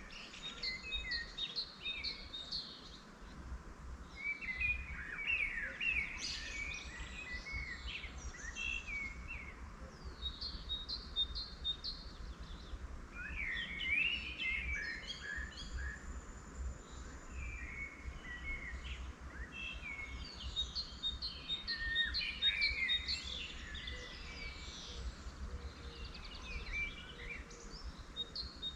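Several wild songbirds singing and chirping in overlapping bouts of quick, varied phrases, over a steady low rumble.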